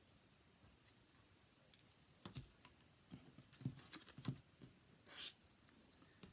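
Faint desk-top handling noises from small foam adhesive dimensionals being taken from their sheet: a few light clicks and taps, then a short papery rustle about five seconds in.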